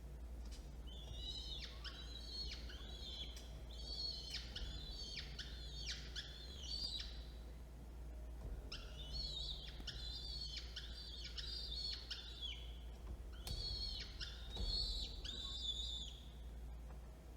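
Small birds chirping: rapid strings of high, repeated chirps in three bouts with short pauses between.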